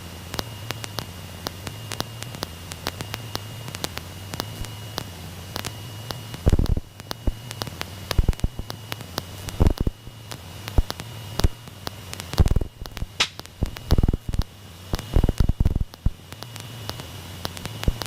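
Intercom audio in a Cessna 150/152 cabin: a low steady drone from the engine and propeller under a thin steady high tone, peppered with sharp clicks and static. From about six seconds in, irregular low thumps break in.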